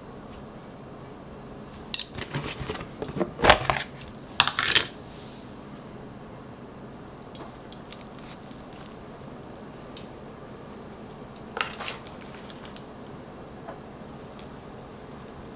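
Dishes and cutlery clinking and clattering: a burst of knocks and clatters about two to five seconds in, the loudest in the middle of it, then a few scattered light clicks.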